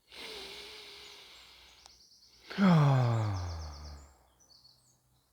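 A man draws a long, breathy breath in, then lets out a loud contented sigh that falls steadily in pitch, about two and a half seconds in. Birds chirp faintly in the background.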